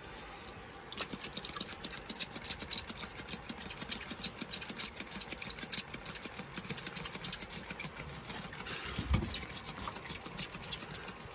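Hand trigger spray bottle squeezed again and again, misting water over seedlings in quick repeated squirts.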